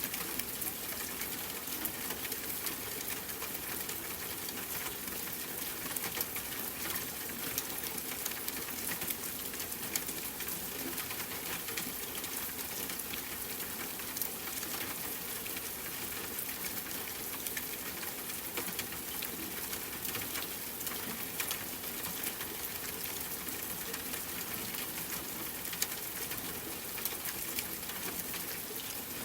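Steady rain patter: an even hiss dotted with many small drop ticks.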